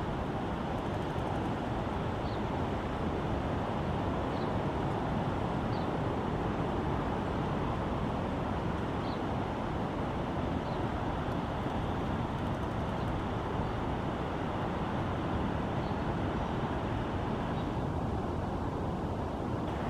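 Steady outdoor background noise, like a distant traffic hum, with faint short high chirps every second or two.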